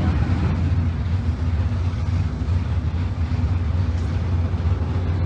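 Stock-class drag racing car's engine idling steadily: a loud, even low rumble.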